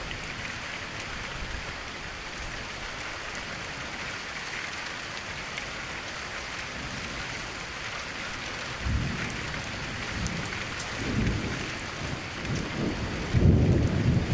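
Steady rain hissing, with low thunder rumbling in about two-thirds of the way through and growing loudest near the end.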